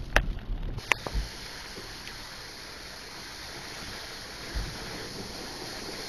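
A few sharp clicks, then a steady watery hiss of a car's tyres running through water on a flooded road.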